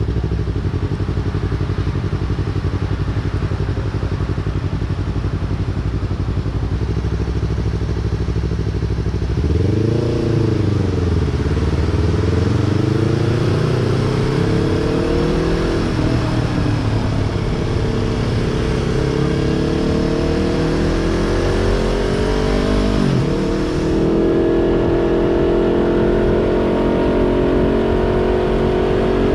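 2020 Yamaha YZF-R3's 321 cc parallel-twin with a Yoshimura exhaust, idling steadily for about nine seconds, then pulling away. The revs rise and fall through several gear changes, dip sharply a little after twenty seconds, then settle into a steady, higher cruise.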